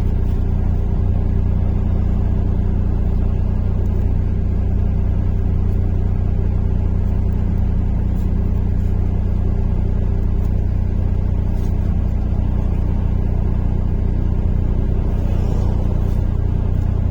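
Steady engine and road rumble inside a MAZ-103 city bus under way.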